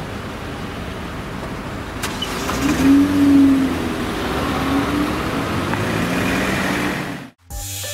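Road traffic: a car driving past, its engine note swelling and falling away around the middle, then cut off abruptly near the end.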